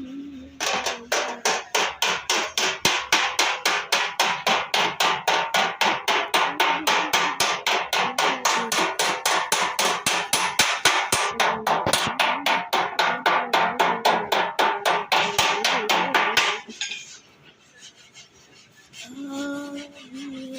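Hammer rapidly tapping out the sheet-metal body side of a Toyota, an even run of about five ringing metallic blows a second that stops about three-quarters of the way through.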